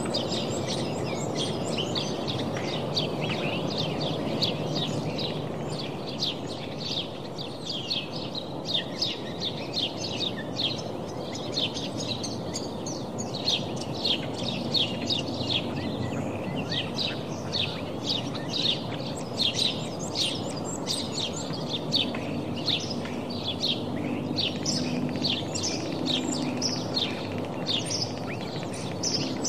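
Birds chirping: many short, high chirps in quick succession, busier in the second half, over a steady low background noise.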